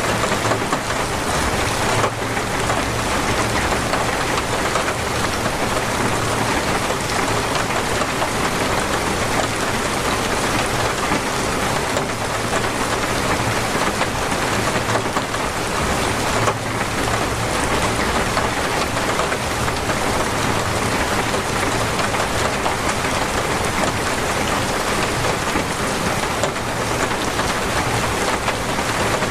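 Torrential rain falling steadily, a dense, even hiss of rain with no let-up.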